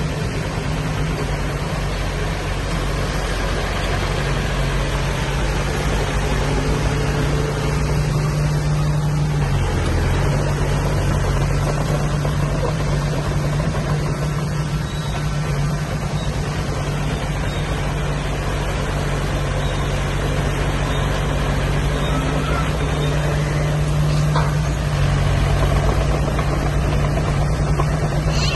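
Diesel engine of heavy earthmoving machinery running steadily, its pitch dipping briefly about ten seconds in.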